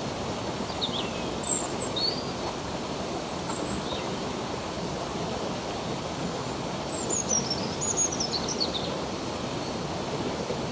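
Stream water running steadily, with birds chirping over it: a few short calls about a second or two in, and a quick falling series of chirps about seven seconds in.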